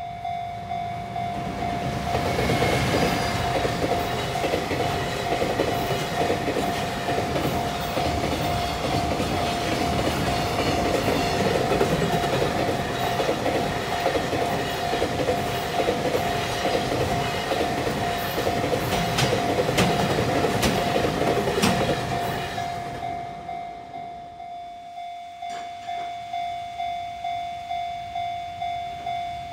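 Recorded sound of a real freight train passing, wheels clacking over rail joints. It swells about two seconds in and fades after about twenty-two seconds. Throughout, a bell-like tone repeats steadily about once or twice a second and stands out on its own once the train has gone.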